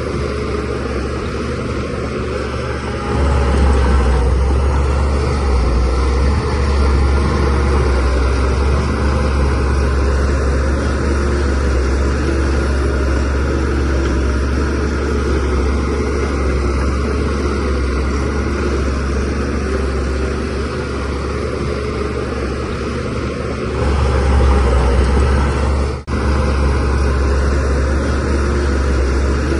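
DH17C3PRO bulldozer's diesel engine running steadily under load, pushing soil. It gets louder about three seconds in and again near the end, with a brief dropout just after.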